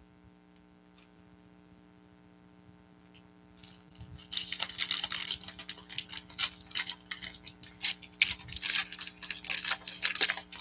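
A low steady electrical hum for the first few seconds, then loud crinkling and rustling of a foil trading-card pack wrapper being torn open and handled, with many small crackles.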